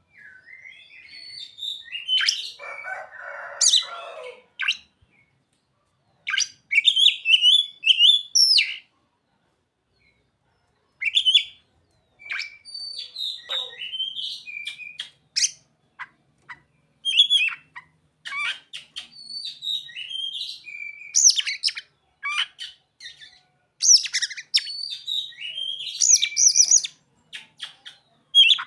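Oriental magpie-robin (kacer) singing a varied song of quick high chirps, trills and whistles in short phrases with brief pauses between. The song includes imitated calls of the bar-winged prinia (ciblek) and the sogon. A harsher, rasping stretch comes about two to four seconds in.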